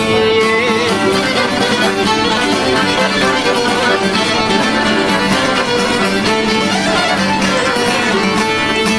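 Instrumental interlude of an Albanian folk song, with the band playing and no singing.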